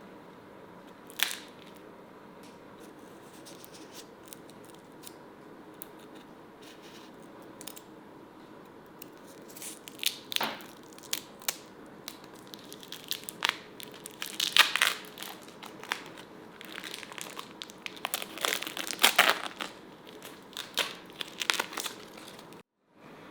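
Irregular scratchy clicks and scrapes of hands working on something at a bench, sparse at first and busier and louder in the second half, with a faint steady hum behind.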